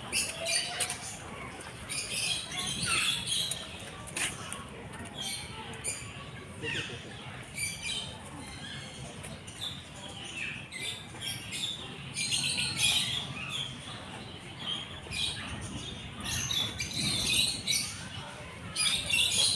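Many birds chirping and squawking, with short high calls overlapping one another all the way through.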